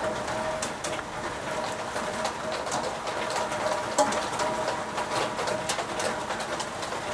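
A pigeon cooing over and over, against a steady patter of rain with drops ticking close by. The sharpest drop tick lands about four seconds in.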